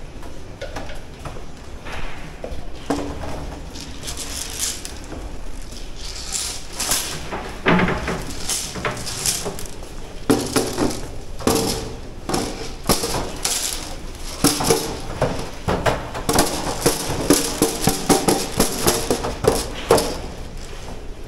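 Pig-barn sounds: repeated metallic clanks and knocks of pen fittings mixed with short pig squeals, coming thicker and faster in the second half.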